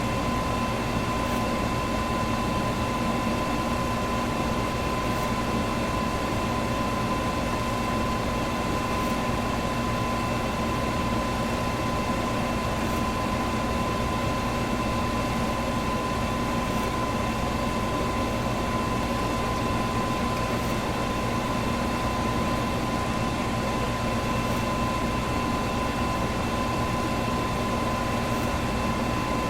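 Electric fan running steadily: an even rush of moving air with a constant whine from the motor.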